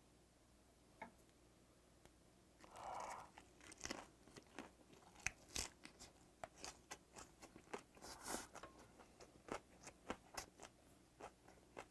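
A man biting into and chewing a wrap of raw napa cabbage leaf, pan-fried beef jeon and scallion salad. The first bite comes about three seconds in, followed by a run of irregular crunching and wet mouth clicks.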